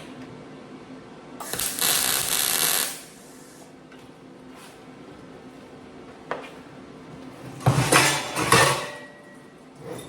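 Sheet-metal shop work on a muffler body. A burst of even noise lasts about a second and a half, starting just over a second in. Later comes a single click, then about a second of metal clattering and knocking with a brief ringing tone after it.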